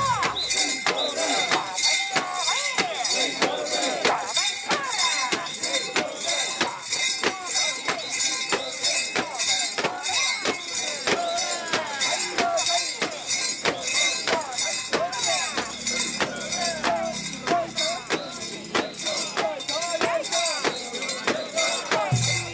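Bells hung on a mikoshi portable shrine jingling in a steady rhythm, about two strikes a second, as the bearers shake it along, with their chanting voices throughout.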